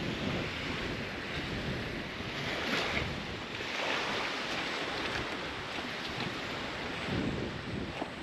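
Wind buffeting the microphone over a steady rush of water and waves, as heard from a small boat under way on open sea.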